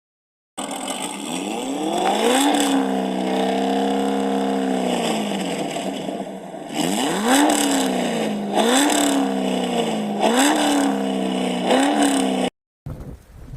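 Chevrolet 5.7L LS1 V8 with long-tube headers and Magnaflow dual exhaust being revved: one rev held for a few seconds and let fall, then four short blips of the throttle. The sound cuts off abruptly near the end.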